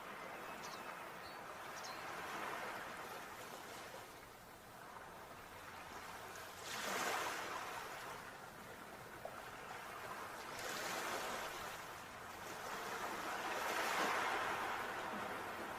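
Sea waves washing in, the surf swelling and falling back three times, loudest about seven seconds in and again near the end.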